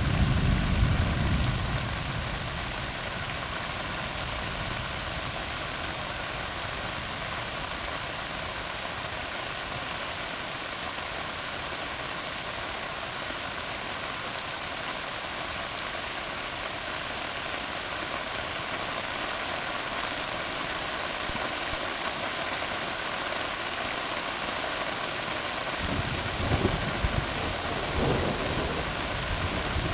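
Steady rain falling on a tar road, an even hiss of drops on wet asphalt. A rumble of thunder fades away over the first two seconds, and a low rumble comes in again near the end.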